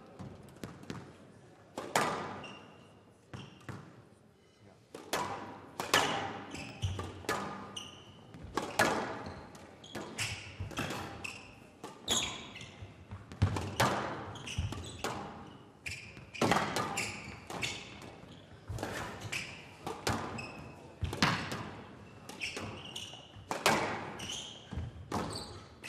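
Squash rally: the ball struck by rackets and hitting the court walls in a steady exchange, about one sharp hit a second, each echoing briefly, with short squeaks in between.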